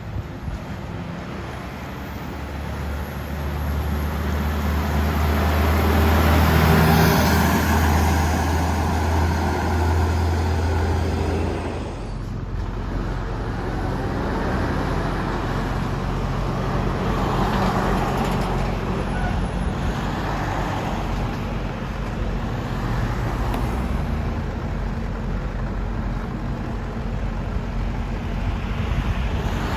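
Heavy diesel trucks driving past: a low engine drone with tyre noise swells to a peak about seven seconds in and cuts off abruptly about twelve seconds in, then more vehicles pass, rising and fading.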